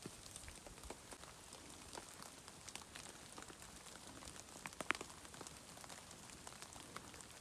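Faint, scattered crackles and ticks over a quiet hiss, with a sharper cluster of clicks just before five seconds in.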